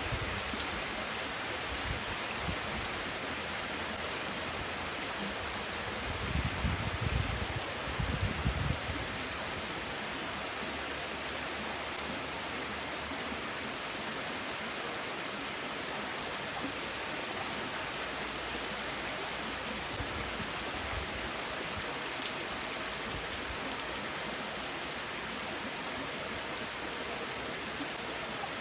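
Steady rain falling, an even hiss. About six to nine seconds in, a few gusts of wind rumble on the microphone.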